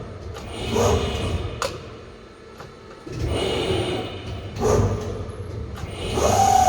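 SAFAN servo-electric CNC press brake cycling through strokes: a swelling run of motor and mechanism noise, a sharp click in each cycle, repeating about every three seconds.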